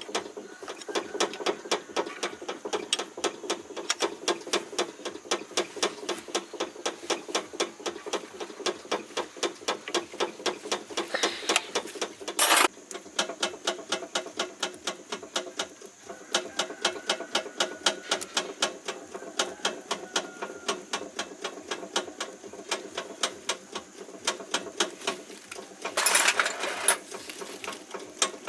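A machine clicking at a steady rate of about four a second over a steady hum, with two short bursts of hiss, one about eleven seconds in and one near the end.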